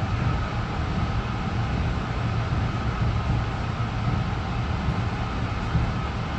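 LIRR M3 electric multiple-unit train running steadily, heard from inside the car: a constant low rumble of wheels on rail with a faint steady whine above it.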